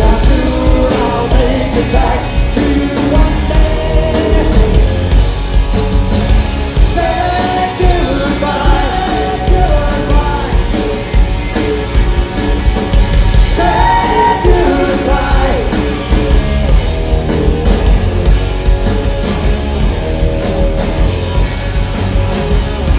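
Live rock band playing loudly, with steady drum hits and a singer's vocal line.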